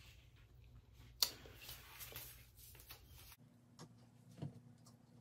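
Faint rustling and light handling noises lasting about two seconds, then a few soft clicks near the end.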